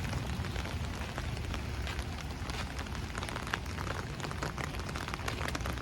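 Steady rain, with a dense patter of individual drops ticking over a low rumble.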